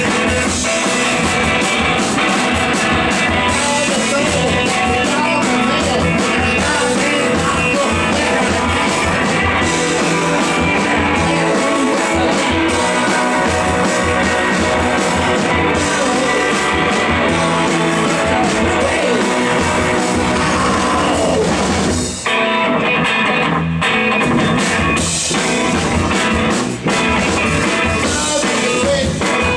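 Live rock band playing: electric guitars, baritone guitar and drum kit at full volume, with a brief break in the playing about three-quarters of the way through.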